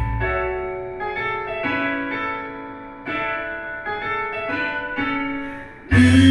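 Karaoke backing track in an instrumental break: a piano plays a quiet passage of chords alone, and the full band with bass comes back in near the end.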